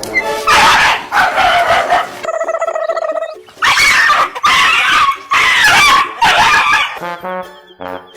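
A dog giving a series of loud barks and whining calls.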